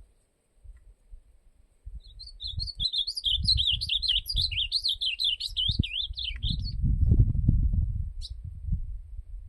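Ultramarine grosbeak (azulão) singing one fast, rich warbling phrase of about five seconds, starting about two seconds in. Low rumbling noise on the microphone underneath, strongest after the song ends.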